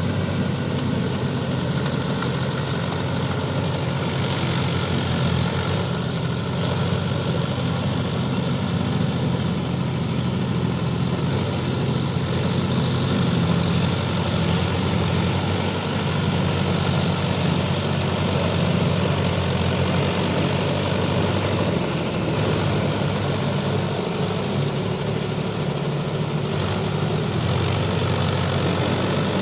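Mahindra Yuvo Tech Plus 585 DI 4WD tractor's diesel engine running steadily while working a rotavator in wet mud, a constant drone with even noise over it.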